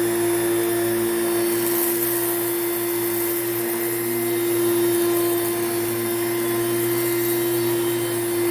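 Hoover Celebrity Quiet Series canister vacuum running at high speed with its power nozzle, a steady hum with one strong unchanging tone. Its plastic components vibrate and buzz, a fault the owner has not yet cured.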